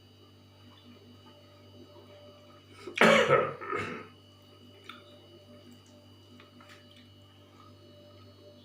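A person clears their throat once about three seconds in, a short sound in two parts. Otherwise a quiet room with a steady low hum and a few faint clicks.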